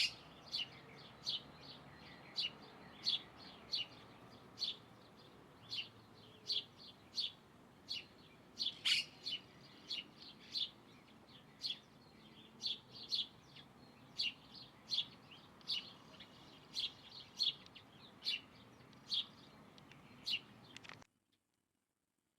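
A bird calling with short, repeated chirps, roughly one or two a second and uneven in spacing, over faint outdoor background noise. The sound cuts off abruptly near the end.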